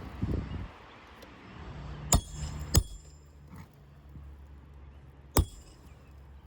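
Hammer striking the metal roof snake tool to drive roofing nails under old asphalt shingles: four sharp metallic clinks at uneven intervals, one with a brief high ring.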